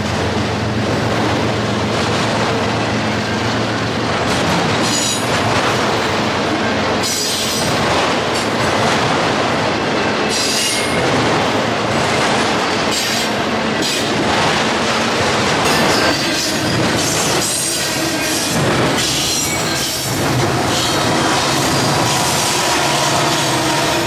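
Freight train rolling past close by: a steady rumble of rail cars with clickety-clack over the rail joints and repeated high-pitched wheel squeals. A low locomotive drone fades within the first few seconds.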